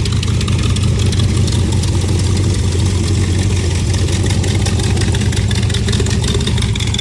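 350 V8 engine of a T-bucket hot rod idling steadily.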